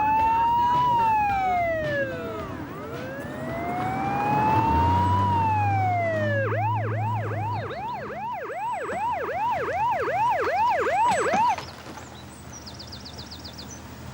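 Police car siren wailing in two long rising-and-falling sweeps, then switching to a fast yelp of about two to three sweeps a second before cutting off suddenly.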